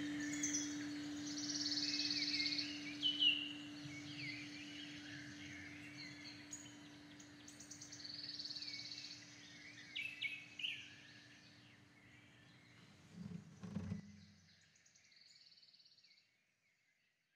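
Birds chirping over a faint steady low tone. The tone fades out about fourteen seconds in, the chirps thin out, and the sound stops into silence near the end.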